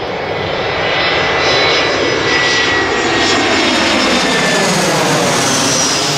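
Jet airliner passing low overhead on approach: a loud, steady engine rush with a thin high whine, swelling over the first second and then holding.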